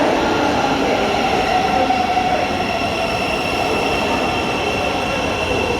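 Thameslink Class 700 electric train moving along the platform: a steady rumble with a high whine or squeal held over it.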